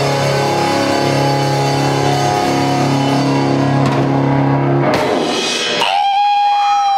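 Live rock band with distorted electric guitars, bass and drum kit holding loud sustained chords, then a final crashing hit about five seconds in. A single high held tone rings out alone near the end, at the close of the song.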